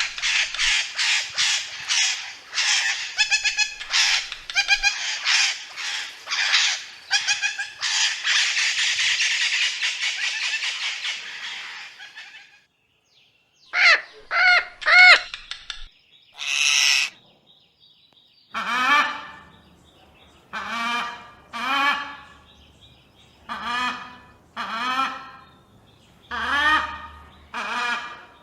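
Indian ringneck parrot calling: a fast run of harsh, screechy squawks, two or three a second, for about the first twelve seconds. After a short pause come separate pitched calls that rise and fall, repeated about every second and a half.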